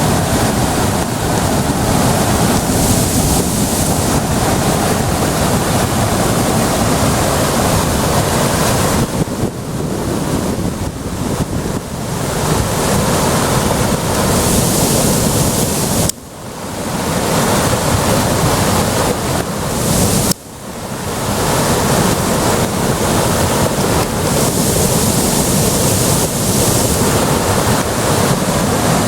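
Swollen river in typhoon flood, the fast water rushing with a loud, steady noise, with wind on the microphone. The sound cuts out sharply twice past the middle and quickly comes back.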